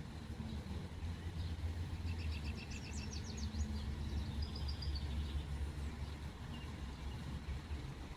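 A small songbird sings a short burst of quick high notes about two seconds in, then gives a few faint chirps, over a steady low rumble of road traffic.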